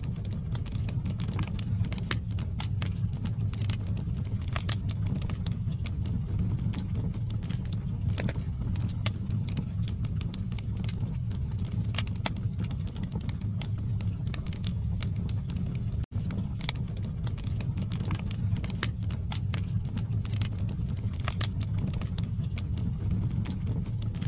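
Wood fire burning logs in a fireplace: a steady low rumble of flame under many sharp, irregular crackles and pops. The sound cuts out for an instant about two-thirds of the way through.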